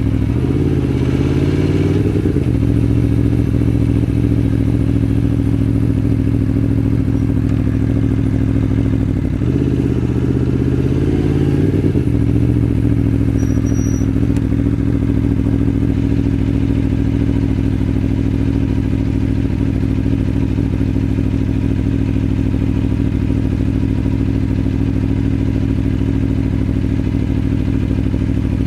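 Aprilia Tuono V4 1100 Factory's V4 engine running steadily at low revs in slow traffic, with two short rises and falls in engine speed, near the start and about ten seconds in.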